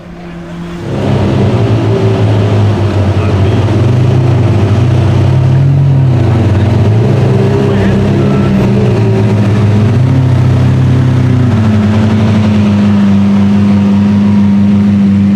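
Sports car engine coming in loud about a second in, its pitch rising and falling with the throttle for several seconds, then holding one steady, higher note for the last few seconds.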